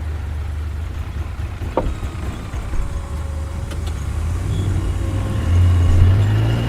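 Jeep engine running at a low steady idle, then revving up and pulling away about five and a half seconds in. There is a single click about two seconds in.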